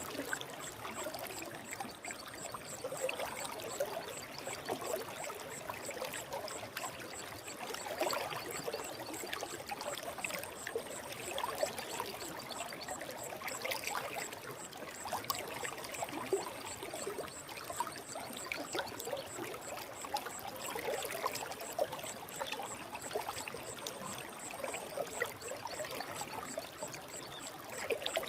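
Forest stream water flowing steadily, a constant rush with a scatter of small splashes and trickles.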